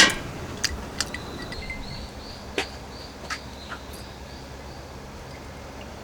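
A sharp clink right at the start, then a few scattered light ticks over a steady background hiss, with a faint high chirp repeating about twice a second through the middle.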